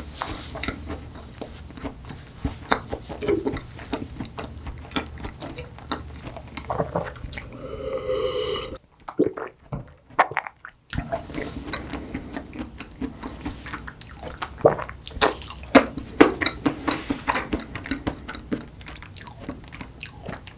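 Close-miked ASMR chewing of soft chocolate cake: wet, sticky mouth sounds with many small clicks and smacks. There is a short hum from the eater about seven and a half seconds in, then a break of about two seconds before the chewing starts again.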